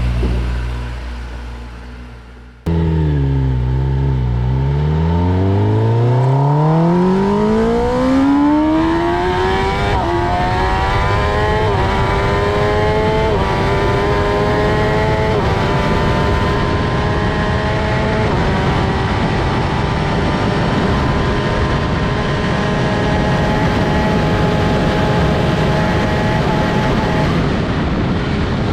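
Superbike's inline-four engine accelerating hard up through the gears. The pitch dips, then climbs steeply, dropping briefly at each of about five upshifts before holding high and steady. A fading engine sound before it is cut off about two and a half seconds in.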